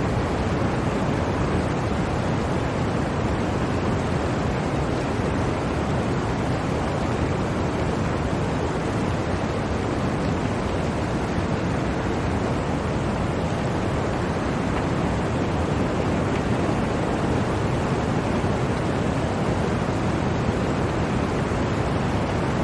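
Blizzard wind blowing steadily, an unbroken, even rush of noise that is heaviest in the low range, with no distinct gusts or breaks.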